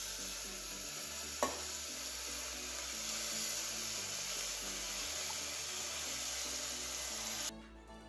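Chopped amaranth leaves sizzling as they are tipped into hot ghee and tomato masala in a pressure cooker and stirred in with a metal spoon, with one sharp tap about a second and a half in. The sizzle cuts off suddenly near the end.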